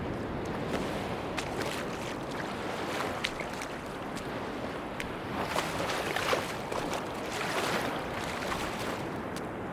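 Sea waves washing onto a beach: a steady wash of surf, with one wave breaking louder and hissing from about five to eight seconds in, and scattered light crackles throughout.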